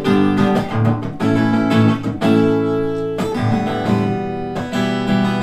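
Acoustic guitar strummed live, playing a chord pattern as a song intro, with one chord left ringing for about a second midway.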